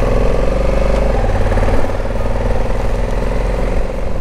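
Honda Africa Twin parallel-twin motorcycle engine running at a steady pitch as the bike gets under way.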